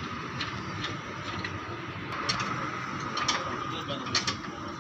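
A few short, sharp mechanical clicks or knocks over a steady background noise.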